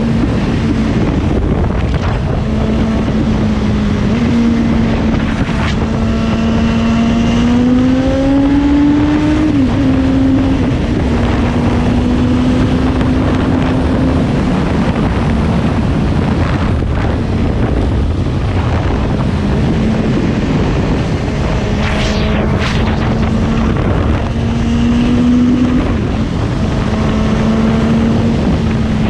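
Suzuki GSX-S750 inline-four motorcycle engine running at cruising speed under a steady rush of wind. Its pitch climbs for a few seconds about six seconds in and then drops back suddenly, and does so again near the end.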